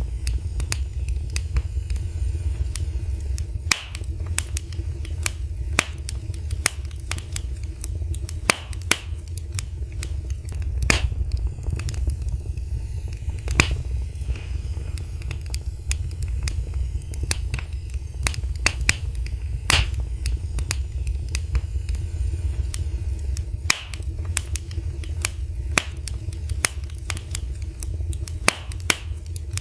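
Wood fire crackling in a fireplace: irregular sharp pops and snaps, several a second, over a steady low rumble of flame.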